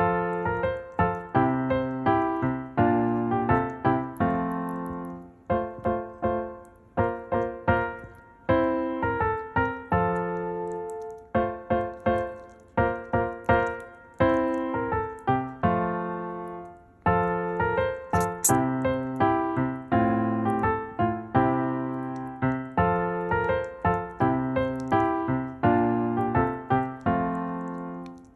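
Solo piano music playing a gentle melody, notes struck and left to ring out.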